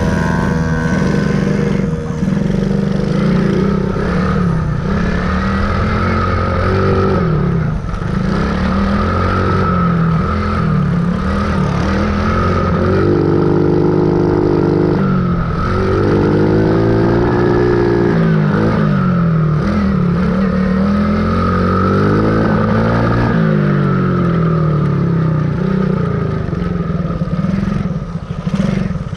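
Dirt bike engine running hard, its pitch rising and falling again and again as the throttle is opened and eased off.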